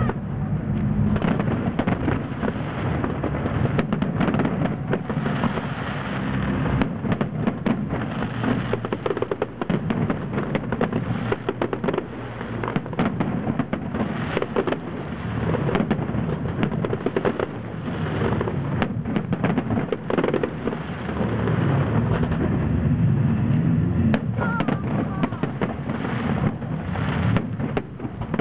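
Fireworks display: aerial shells bursting in a dense, continuous series of overlapping bangs, with no pause.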